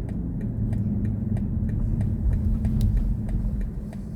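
Low road and tyre rumble heard inside the cabin of a moving BMW i4 M50 electric car, with a light ticking about three times a second.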